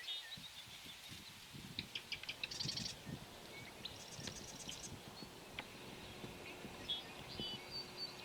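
Songbirds singing: short high chirps and whistles, with two rapid, buzzy rattling trills.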